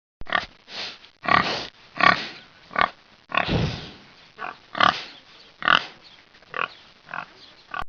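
An animal calling over and over in short, rough, noisy calls, about a dozen of them. One longer call comes about halfway through.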